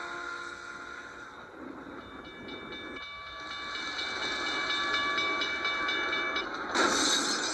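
G-scale model train running, with a steady hiss and, from about two seconds in, a faint held whistle tone. A sudden loud noisy burst comes in near the end.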